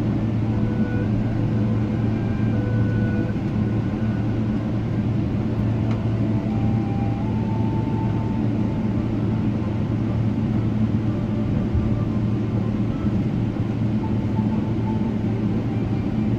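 Steady low rumble of airliner cabin noise inside a Boeing 777-300ER, with faint shifting tones drifting above it.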